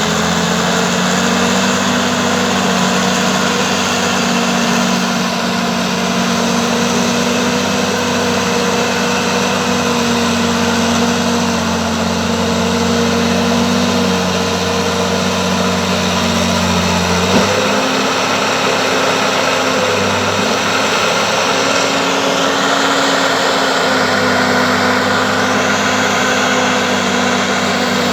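Bulldozer's diesel engine running steadily, with a brief dip and shift in pitch about two-thirds of the way through as the load changes.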